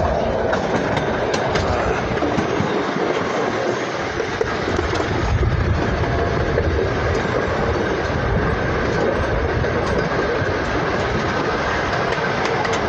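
Train rolling along the track, heard from aboard: a steady rumble and rattle of the wheels on the rails, the low rumble growing heavier about five seconds in.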